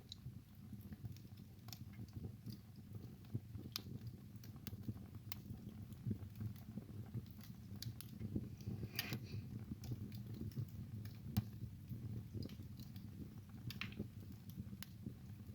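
Wood fire in a fireplace crackling and popping: irregular sharp snaps over a low, steady rumble from the burning logs, with a short hiss about nine seconds in.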